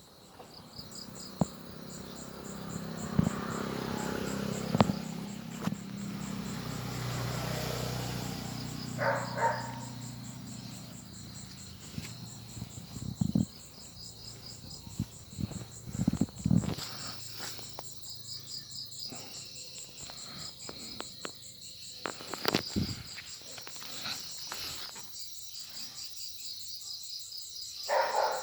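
Insects chirring steadily in a fast, pulsing high trill. A low rumble is heard in the first ten seconds, with occasional knocks and a couple of brief calls mixed in.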